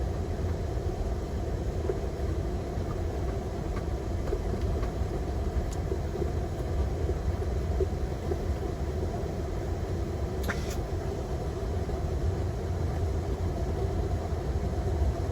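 Steady rumble inside an airliner's flight deck while taxiing, from the engines at taxi power and the cockpit air flow. A brief click comes about ten seconds in.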